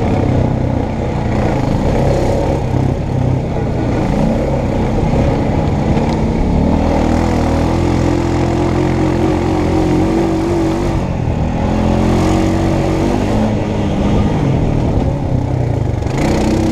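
Honda Foreman Rubicon ATV engine running hard on a trail ride, its pitch climbing and falling as the throttle is opened and eased off.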